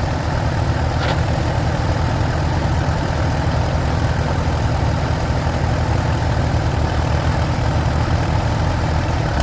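Vintage tractor engine idling steadily, stationary while the driver hunts for a gear.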